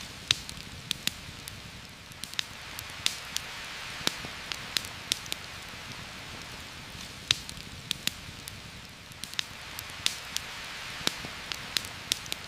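Heavy rain falling steadily on forest leaves, an even hiss with scattered sharp ticks, several a second at irregular spacing.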